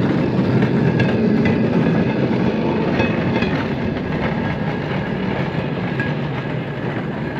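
Pump hand car's steel wheels rolling along the rails: a steady rumble with light clicking.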